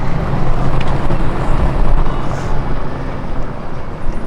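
Wind gusting over the microphone: a loud, steady low rumble.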